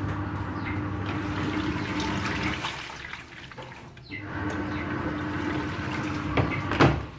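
New washing machine filling with water for its first wash: water running in with a steady hum, in two stretches with a short break about three seconds in. A sharp knock near the end.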